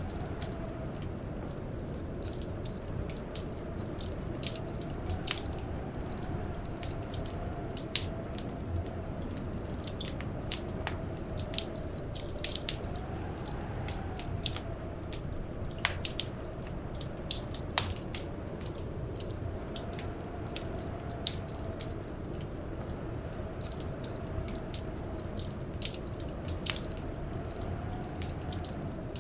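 Wood fire crackling, with irregular sharp pops and snaps over a steady low roar of the flames. Under it runs a faint, slowly wavering howl of blizzard wind.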